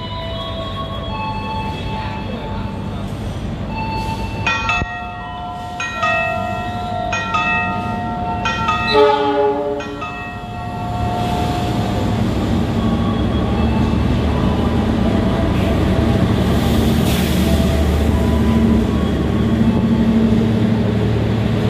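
A melody plays over the station speakers. About nine seconds in, a train horn sounds briefly, and then comes the steady rumble of the Ranggajati passenger train pulling into the platform.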